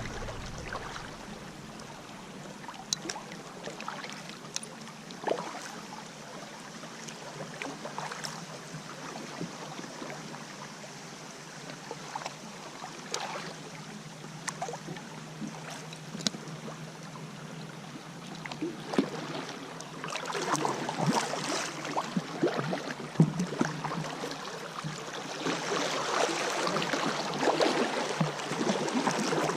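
Kayak on a flowing river: scattered paddle splashes and drips over a steady rush of moving water, which gets louder and busier about twenty seconds in.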